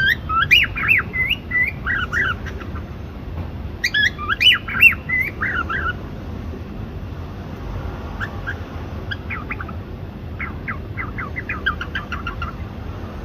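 Cockatiel chirping in quick up-and-down notes: two loud bursts of chirps in the first six seconds, then a run of softer, faster chirps later on.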